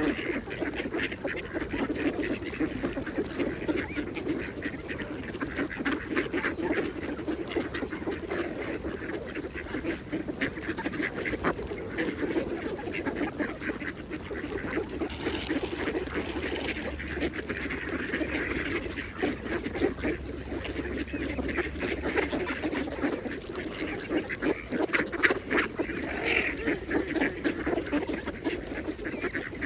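Mallard ducks feeding, with a continuous rapid dabbling chatter of bills working the water and intermittent quacks.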